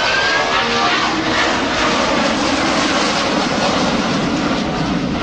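Boeing 757's twin turbofan engines at high power in a climbing display pass: a rising whine in the first second over a loud, steady jet roar.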